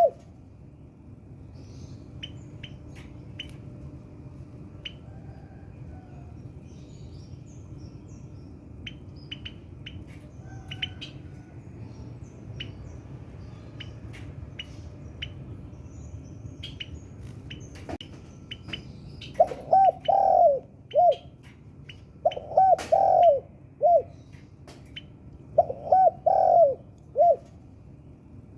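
Spotted dove (tekukur) cooing: three phrases of three or four low coos each in the last third. Short high chirps come and go throughout.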